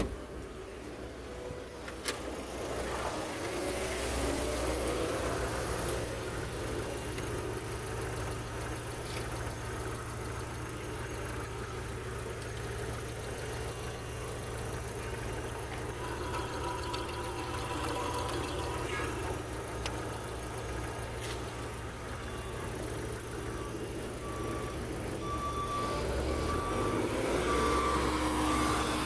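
Opel Astra H's Z18XE 1.8-litre four-cylinder petrol engine idling steadily on a test run. A click comes at the start and another about two seconds in, and a row of short beeps sounds near the end.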